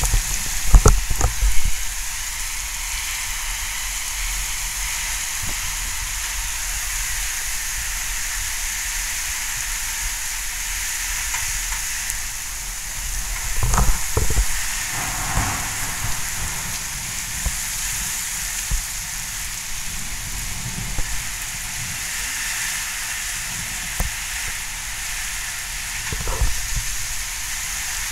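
Heavy storm rain falling steadily, a dense even hiss. A few short low thumps break through, the loudest in the first two seconds and again about halfway through.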